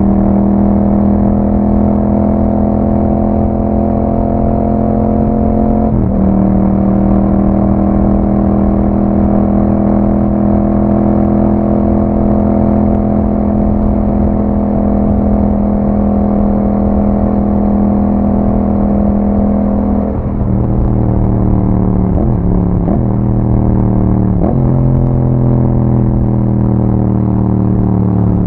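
Yamaha MT-07's parallel-twin engine running through an Akrapovic exhaust on the move, holding a steady note at cruising revs. There is a short break in the note about six seconds in. In the last third the revs drop to a lower pitch and the note breaks several more times in quick succession.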